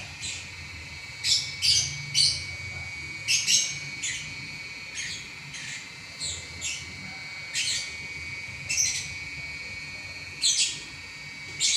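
Lovebird chattering in continuous song: sharp high chirps, often in pairs or short runs, repeating irregularly about every second.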